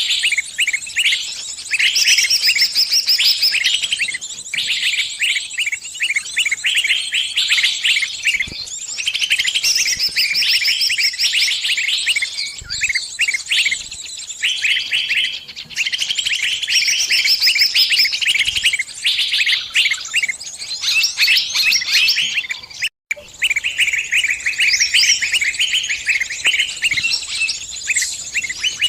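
Small bird giving rapid, high-pitched distress chirps, the calls of a bird caught in a trap crying out to its flock. The chirping is dense and continuous, with a brief gap about 23 seconds in.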